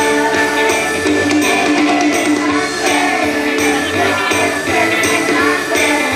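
A chorus singing a song with instrumental accompaniment that keeps a steady beat.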